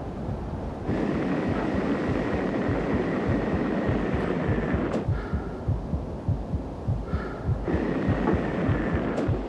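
A fast, low heartbeat-like throbbing pulse, under a rushing wind noise with a faint whistle that comes in about a second in, drops away around the middle, and swells again near the end.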